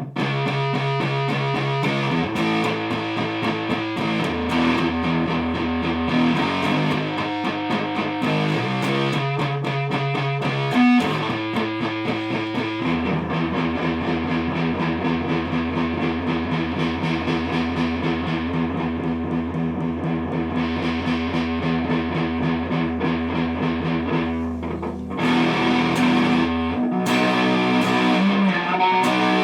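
Electric guitar played through a distortion pedal on its hardest setting, with a Tube Screamer-type overdrive stacked in front, into an amplifier. It plays riffs with a long run of fast repeated low notes through the middle, and gets louder for the last few seconds. It gives a very full distortion, more bluesy than metal.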